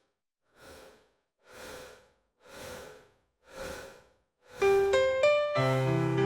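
Chill background music starting up. After a brief silence come four soft, breathy whooshing swells about a second apart as a lead-in, then electric-piano chords and a bass line enter about four and a half seconds in.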